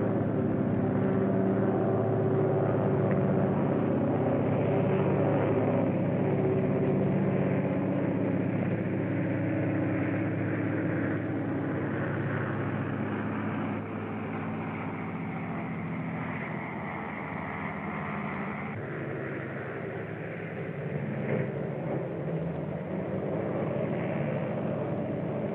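Steady engine and running noise of a moving vehicle, with an abrupt change about three quarters of the way through.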